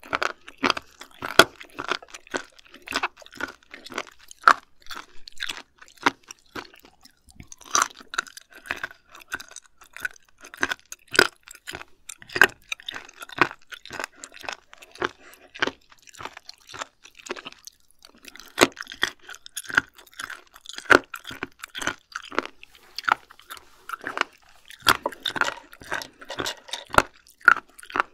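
Close-miked chewing of raw seafood sashimi: many sharp, irregular mouth clicks and chews.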